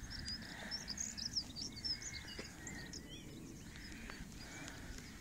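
Small birds singing: many quick, high chirps, busiest in the first three seconds and thinning out after, over a low outdoor rumble.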